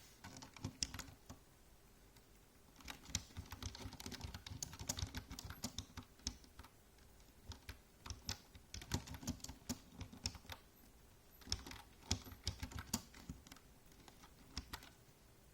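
Typing on a computer keyboard: runs of rapid key clicks in several bursts, broken by short pauses.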